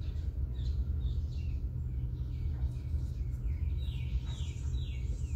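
Birds chirping over a steady low rumble, with a run of quick, falling chirps about four seconds in.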